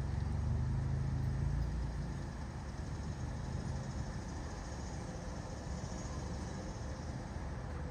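Honda Civic engine idling, a little louder for the first two seconds, then settling into a steady low idle.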